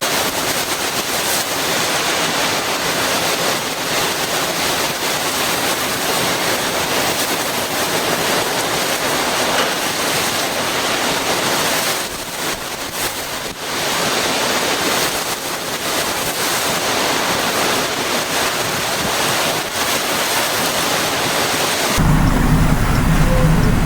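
Heavy storm rain and wind as a loud, dense, steady hiss, easing briefly about halfway through. Near the end it cuts abruptly to a different sound with a low steady hum.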